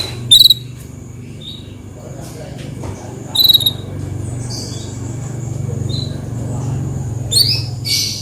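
Canary calls: three short, loud chirps, one near the start, one mid-way and one near the end, over a steady high-pitched thin trill and a low hum.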